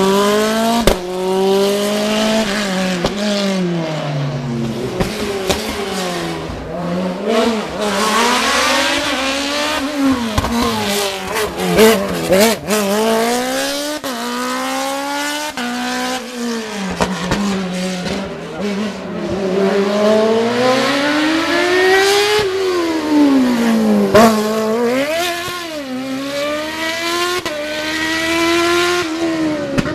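A racing car's engine at full effort on a hill-climb course: its pitch climbs hard through the gears, drops at each shift and when braking for bends, then climbs again. There are a couple of sharp cracks along the way.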